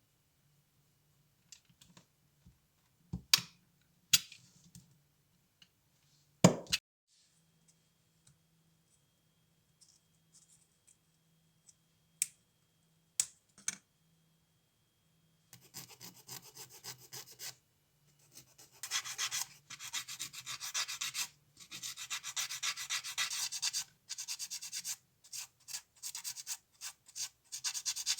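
A few sharp clicks and knocks, then from about halfway on, rapid back-and-forth abrasive rubbing strokes, several a second, in runs broken by short pauses: hand abrading of a small model car part.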